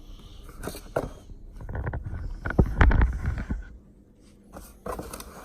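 Cardboard shoe box being handled and opened: scattered clicks and scraping, with a louder rubbing rumble about two and a half seconds in.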